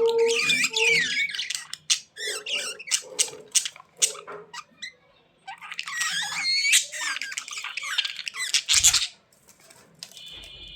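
A pet bird squawking and chattering in bursts of quick, warbling calls mixed with sharp clicks. There is a quieter, patchier spell in the middle, and a second loud burst follows.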